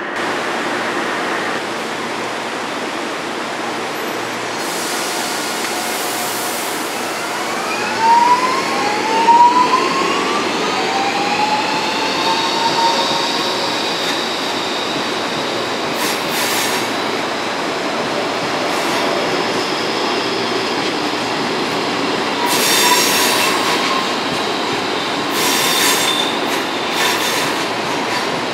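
Electric passenger train moving through the station, with a steady rumble of wheels on rail. Partway through there are short squeals of the wheels, and a motor whine rises in pitch and then holds. Several short hisses of air come and go.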